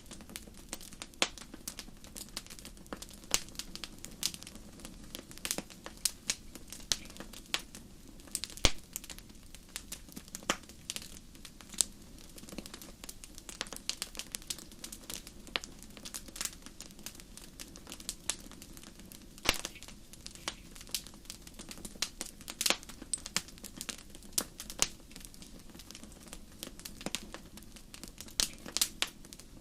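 Wood fire burning in a fireplace: irregular sharp crackles and pops over a steady low hiss, a few pops much louder than the rest.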